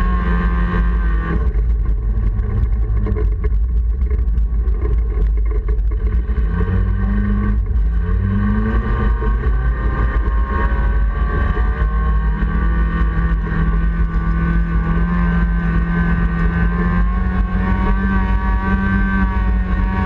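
Honda Civic race car's four-cylinder engine heard from inside the cabin under hard driving. The pitch drops about a second and a half in, rises twice in the middle as the car pulls up through the revs, then holds a steady high note. A heavy low rumble runs underneath throughout.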